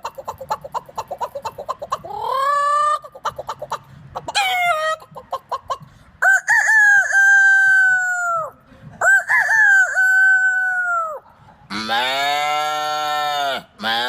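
A man imitating farm birds with his voice: rapid hen-like clucking, then two long rooster crows, then a lower drawn-out animal call near the end.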